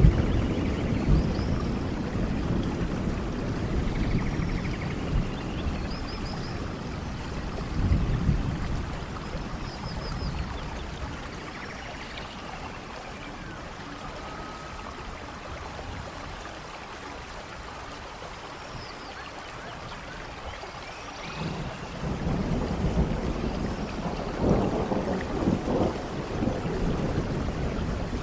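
Heavy rain falling steadily with thunder rumbling: low rumbles at the start and briefly about eight seconds in, a quieter spell in the middle, then a long rumble that builds again about two-thirds of the way through.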